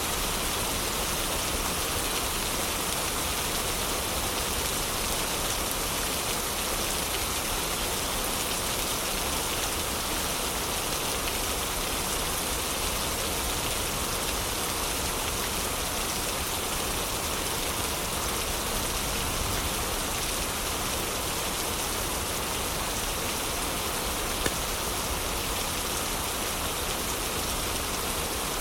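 Heavy rain falling steadily, an even hiss of rain with no change in strength. One brief sharp click sounds about three-quarters of the way through.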